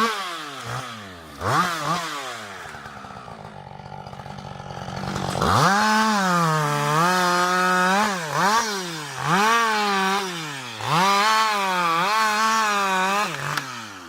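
Two-stroke chainsaw revved in a few quick blips, dropping back to a low idle. About five seconds in it goes to full throttle, its pitch dipping and recovering again and again as the chain pulls into the wood, then falls off near the end.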